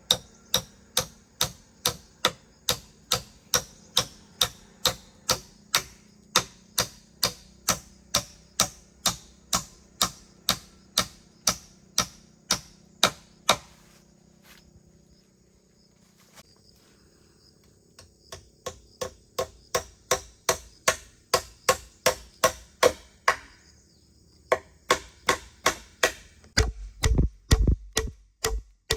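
Hammer blows nailing down floorboards, a steady two or so a second. They stop for a few seconds midway, then resume and speed up near the end with heavier, deeper thuds.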